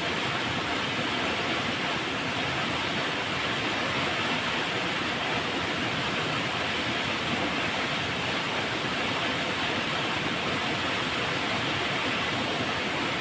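Flowing river water making a steady rushing noise, even and unbroken.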